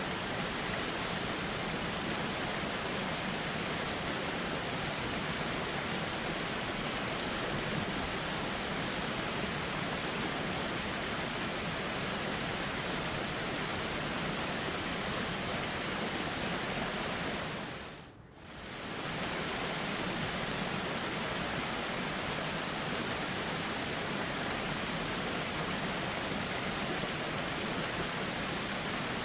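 Steady rushing of a flowing river. About two-thirds of the way through, the sound briefly fades almost to nothing and swells straight back, like the join of a looped recording.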